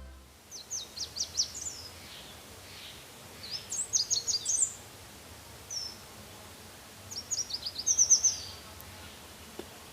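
A small songbird singing in phrases of quick, high chirping notes. There are three bursts, each about a second and a half long, and a single short note between the second and third, over a faint steady outdoor hiss.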